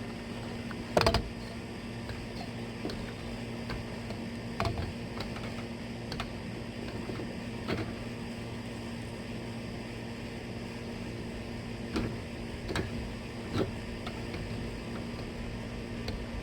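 A steady low mechanical hum, with a handful of scattered knocks and clicks, the loudest about a second in.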